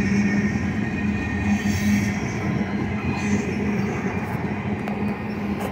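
Ethanol tank cars of a freight train rolling past: steady rumble of steel wheels on rail, with a low steady hum running through it.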